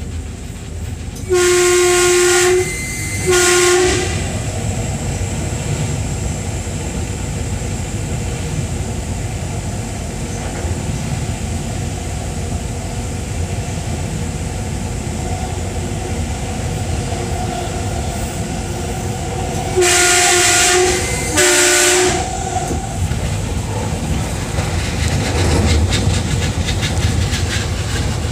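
Oscar H set electric train heard from its driver's cab, with the steady running noise of wheels on rail. Its horn sounds twice in quick succession about a second in, and again twice about twenty seconds in.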